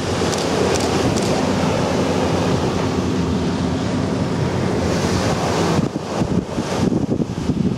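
Wind buffeting the microphone and water rushing, with a faint steady engine hum underneath, while riding aboard the Type 94 minelaying boat on the water.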